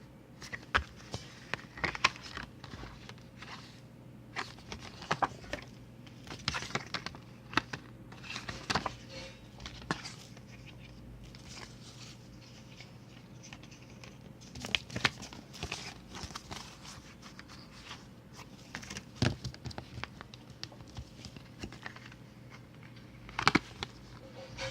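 Paper and plastic being handled by hand: irregular rustling and crinkling with sharp clicks, over a steady low hum.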